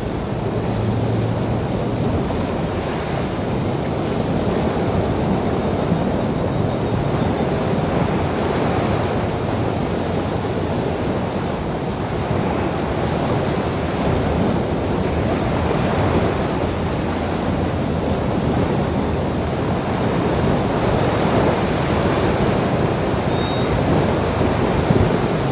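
Ocean waves washing onto a shore in a continuous surf, swelling and easing gently, with some wind noise on the microphone.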